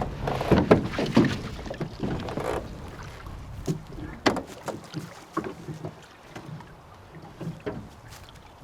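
Water splashing and sloshing around a small boat that is taking on water, loudest in the first couple of seconds, followed by scattered knocks and small splashes.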